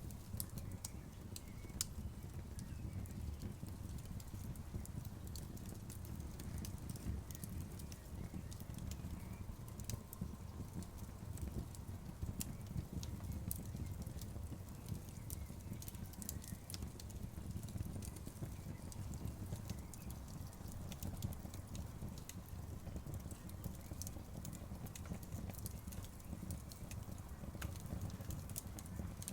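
Outdoor bonfire burning with a steady low rumble and frequent sharp pops and crackles scattered throughout.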